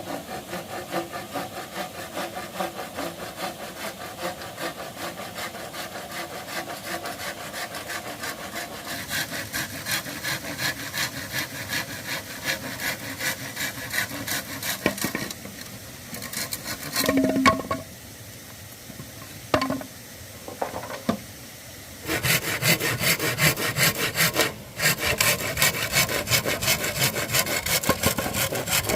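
Hand saw cutting through wood in quick back-and-forth strokes. It stops about halfway for a few separate knocks, then starts again more loudly near the end with one brief pause.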